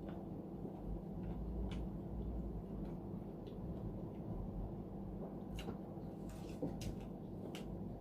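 Eating sounds: a handful of short, light clicks and mouth smacks over a steady low hum, as someone eats with a spoon from a plate.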